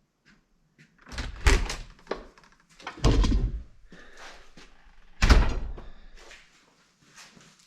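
Three heavy thumps about two seconds apart, each trailing off over about half a second, with lighter knocks and clicks between them.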